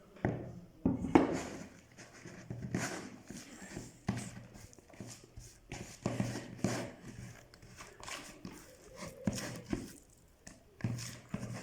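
Kitchen utensil knocking and scraping in a bowl as a batter of flour and chermoula is mixed by hand: irregular knocks and clatters, one or two a second.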